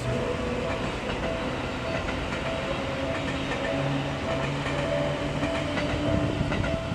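Seibu Line electric train passing slowly, its wheels clicking over the rail joints amid steady rolling noise. A level-crossing warning bell rings in a steady rhythm, about once every half second or so.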